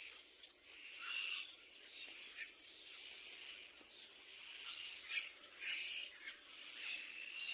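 High, hissing bird calls from little black cormorant chicks, coming in irregular bursts.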